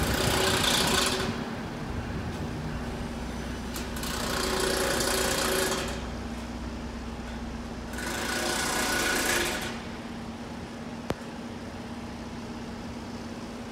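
A train running through the station: a steady engine hum with three louder surges of rumble and rattle about four seconds apart. It settles lower after about ten seconds, with one sharp click near the end.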